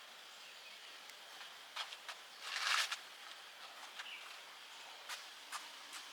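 Outdoor background ambience: a steady high hiss with a few sharp clicks and a short, louder rustling noise about two and a half seconds in.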